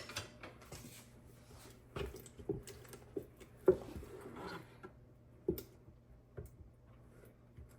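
A spoon scooping rum-soaked dried fruit into banana bread batter: wet squishy scraping with scattered taps of the spoon against the bowl, the loudest about a third of the way in.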